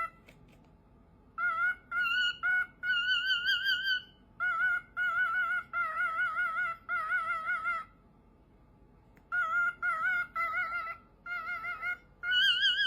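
A bird calling: a run of short warbling calls with a rapidly quivering pitch, some clipped and some held for about a second, with a pause of about a second and a half in the middle.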